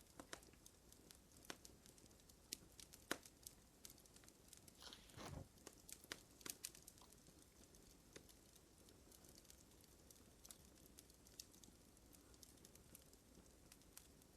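Fire crackling faintly, with irregular sharp pops and a short, louder rustle about five seconds in.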